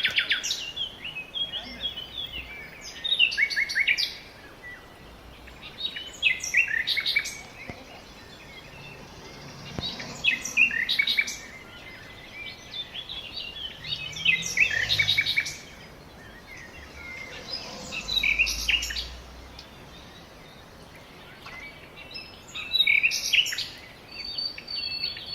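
A songbird singing short phrases of quick, high chirping notes, repeated about every three to four seconds, over faint outdoor background noise.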